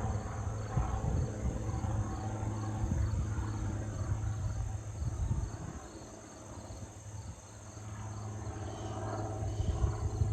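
Cessna 182T Skylane's six-cylinder piston engine and propeller droning overhead in a steady low hum, fading a little about six seconds in and then coming back up, with gusty wind on the microphone.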